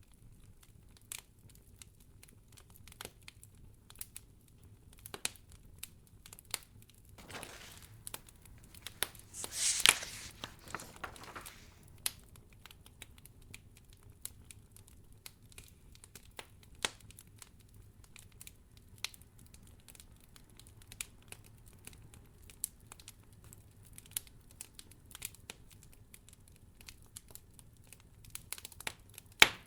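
Wood fire crackling in a fireplace: irregular sharp snaps and pops over a faint low hum, with a longer rustling swell from about seven to twelve seconds in and one loud pop near the end.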